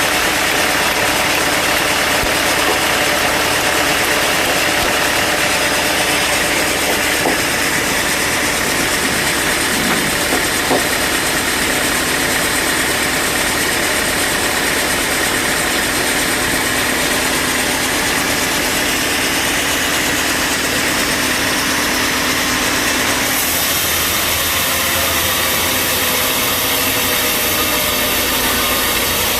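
Bandsaw sawmill machinery running with a steady mechanical drone and hiss; the tone shifts about 23 seconds in.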